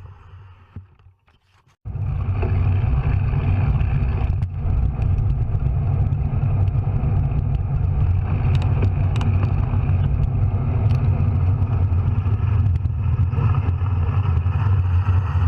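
Wind buffeting a GoPro's microphone while riding a bicycle: a loud, steady, low rumble that cuts in suddenly about two seconds in.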